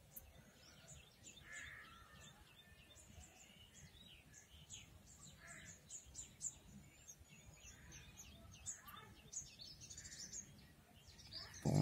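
Faint birds chirping: many short, high chirps repeating throughout over a low background hum, with a brief louder sound at the very end.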